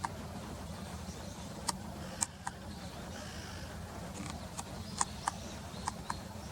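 Outdoor background: a steady low rumble, with about nine short, sharp ticks scattered through and faint high chirps in between.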